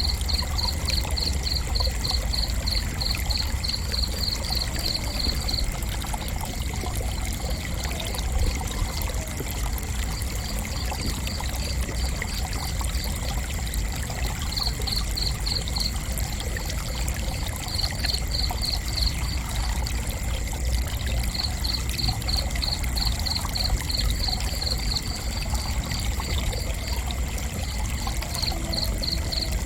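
Cricket chirping in runs of quick, evenly spaced chirps a few seconds long, with pauses between runs, over a steady background hiss and low rumble.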